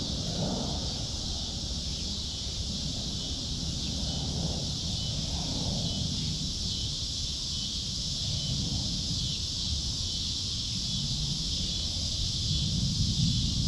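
A few soft, low clucks from free-range hens in the first half, over low wind rumble on the microphone and a steady high hiss.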